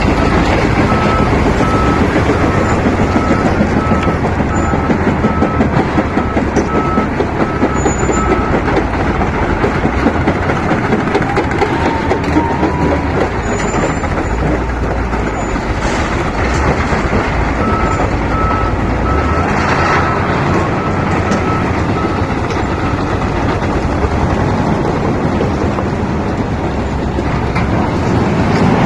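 Lovol FL936H wheel loader's diesel engine running steadily under work, with a reversing alarm beeping about twice a second for several seconds near the start and again about two-thirds of the way through.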